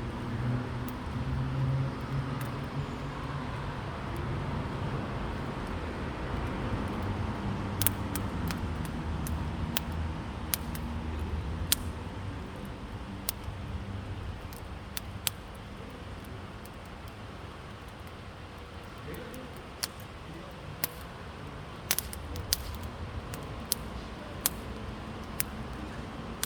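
Wood campfire burning, crackling with irregular sharp pops and snaps, over a low steady background rumble.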